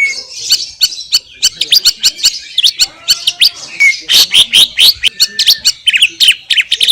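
Cucak ijo (green leafbird) singing a fast, loud, unbroken run of sharp whistled notes and trills, with a short softer passage about three seconds in.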